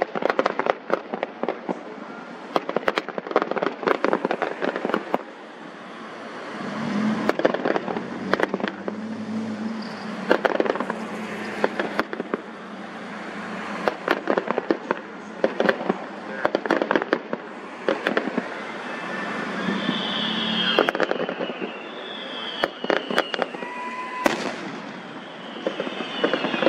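Fireworks going off in a rapid string of sharp bangs and crackling bursts, with deeper booms rolling for a few seconds about a quarter of the way in and several short falling whistles about three quarters of the way through.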